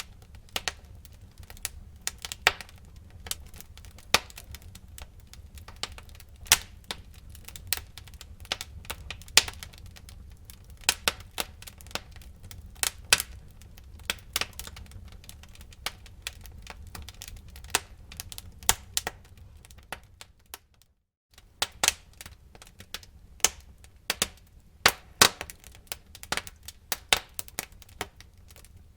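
Wood fire crackling in a fireplace: irregular sharp pops and snaps over a low steady rumble, with a brief break of about half a second two-thirds of the way through.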